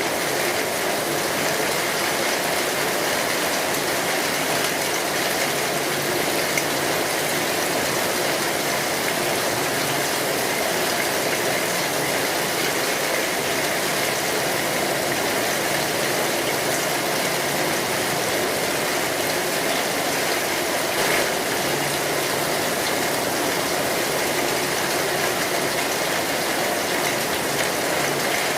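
Steady heavy rain falling on a metal roof, an even unbroken hiss and patter, with a couple of faint clicks.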